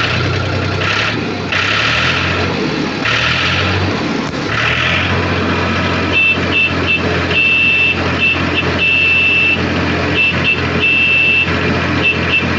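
A vehicle engine running steadily. From about halfway, a high electronic beep sounds in uneven short and long stretches, like a reversing or warning beeper.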